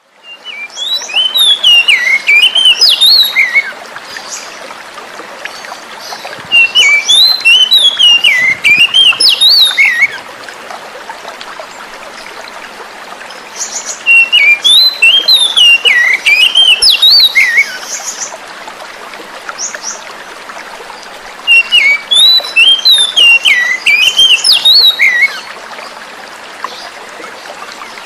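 Oriental magpie-robin (kacer) singing four phrases of quick, varied whistled notes, each a few seconds long, over a steady rush of flowing water.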